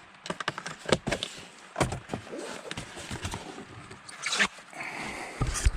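Irregular knocks, clicks and scrapes, with a loud knock near the end just before the sound cuts off.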